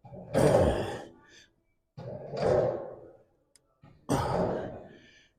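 A man breathing out hard three times, about two seconds apart, each breath starting sharply and trailing off: effort breaths during reps of hamstring curls.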